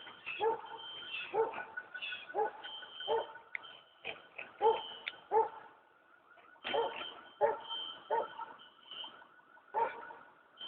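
A dog barking repeatedly, about ten short barks in loose groups of two or three, over a faint steady high tone.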